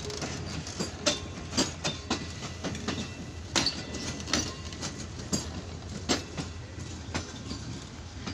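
Passenger train coaches rolling past at close range: a steady low rumble of steel wheels on rail, with sharp clacks about once or twice a second, unevenly spaced, as the wheels cross rail joints and points.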